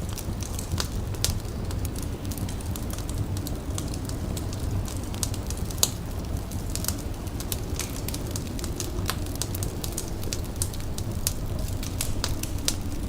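A fire crackling, with sharp irregular pops over a low steady rumble.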